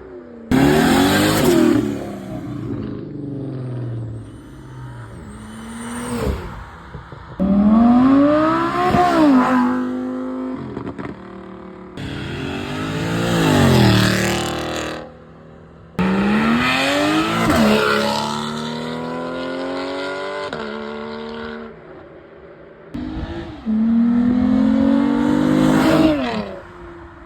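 Sports car engines accelerating hard one after another, about five in turn. Each one starts suddenly and rises in pitch as it revs up, then drops at the gear change.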